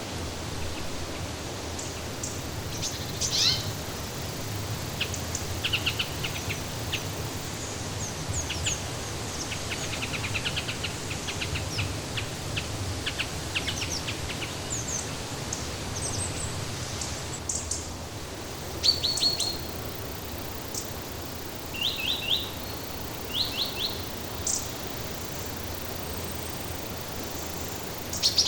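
Wild songbirds chirping and trilling in many short, quick notes, scattered throughout, over a steady hiss of background noise.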